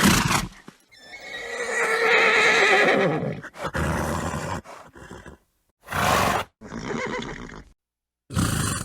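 Horse neighing: a long, wavering whinny starting about a second in and lasting about two seconds, amid short noisy bursts typical of a horse snorting.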